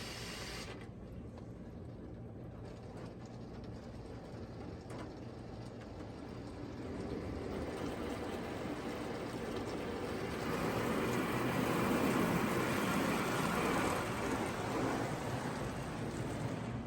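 Touchless car wash's high-pressure water jets spraying against a car, a hissing wash that builds about halfway through, is loudest in the latter part, then eases near the end.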